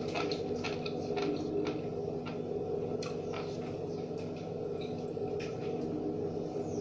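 Someone eating roast and fried breadfruit close to the microphone: scattered small clicks and wet mouth sounds of chewing over a steady low hum.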